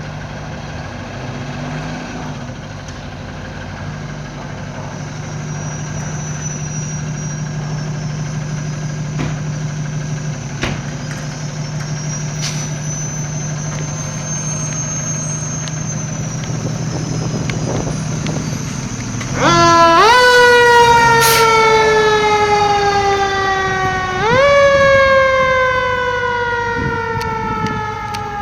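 A fire engine's motor runs steadily. About two-thirds of the way in, its siren winds up quickly and falls slowly in pitch. A few seconds later it winds up once more and falls again.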